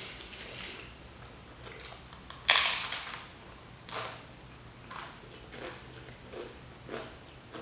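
Crunchy bite into ghost-pepper potato crisps about two and a half seconds in, the loudest sound, followed by chewing crunches roughly once a second.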